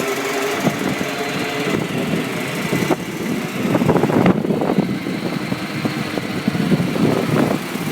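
A 2004 Isuzu 1,000-gallon AVGAS refueler running steadily with its fuel pump working, pumping fuel through the meter and back into its own tank.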